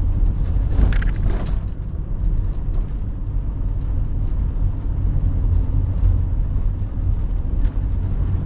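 Steady low rumble of an RV driving along a road: engine and road noise.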